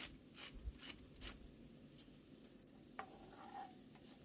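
A pepper mill being twisted to season the pan: short, crisp grinding strokes about two a second that stop after a second or so. About three seconds in there is a single light clink.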